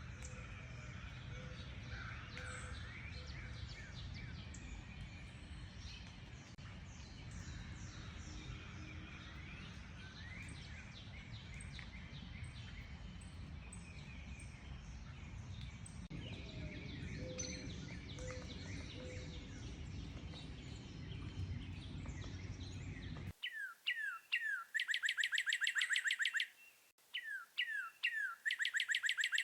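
Several wild songbirds chirping and whistling together over a low steady background rumble. About 23 seconds in the sound cuts abruptly to a louder, clean recording of a single songbird singing fast trills, two phrases, each opening with a few downward-sweeping notes.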